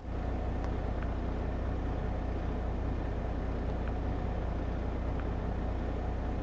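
Semi-truck's diesel engine idling, a steady low rumble.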